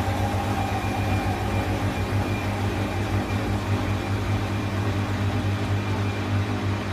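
Gorenje WPAM74SA1T washing machine running, a steady motor hum with a low drone and a few steady higher tones.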